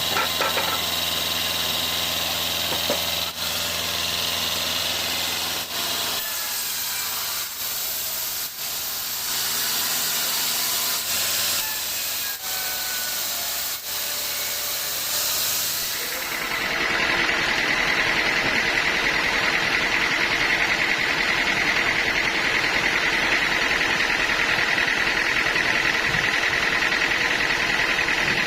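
Sawmill machinery running, a steady hiss over a low hum. About sixteen seconds in the sound changes to a louder, even noise with a steady high whine.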